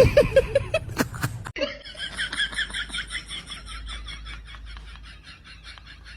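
Laughter in quick rhythmic pulses. It breaks off abruptly about a second and a half in, then a higher-pitched run of short laughing pulses, about five a second, trails off gradually.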